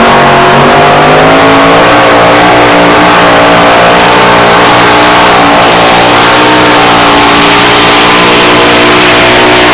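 Two-wheel-drive pulling truck's engine held at high revs under full throttle, dragging the weight-transfer sled down the track. It is loud and steady, with small wavers in pitch.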